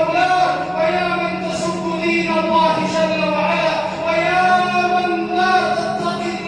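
Unaccompanied singing voice holding long, drawn-out notes that bend and step slowly in pitch, with no instruments.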